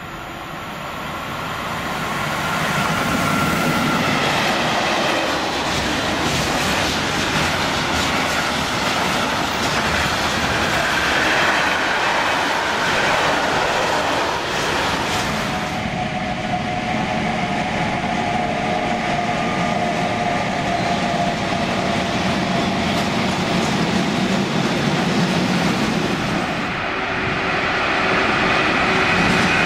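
Electric freight train passing: a DB Class 189 locomotive draws near, growing louder over the first few seconds, and its long line of container, tank and trailer wagons rolls by with steady wheel noise on the rails. About halfway through the sound changes abruptly to another stretch of freight train rolling past, with a few held tones above the rolling noise.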